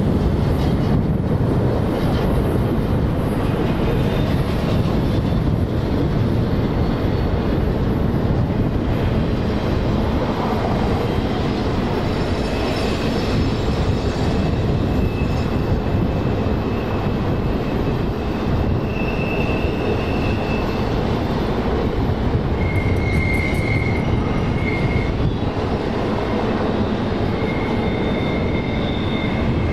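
Freight train rolling through the rail yard: a steady, loud rumble of wheels on rail, with brief high-pitched wheel squeals that come and go through the second half.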